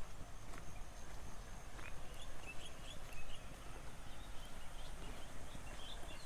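Small birds chirping in quick short high notes, in clusters, over a steady low rumble of wind and a faint constant high insect whine.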